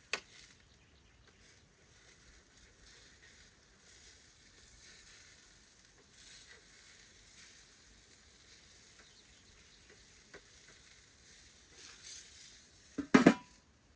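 A burger patty sizzling faintly on a hot charcoal grill. A short click comes right at the start, and a sharp, loud knock comes near the end.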